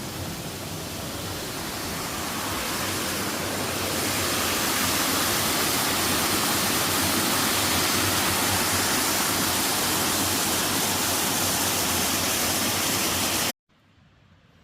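Rain-swollen water rushing steadily, growing louder over the first few seconds, then cut off suddenly near the end.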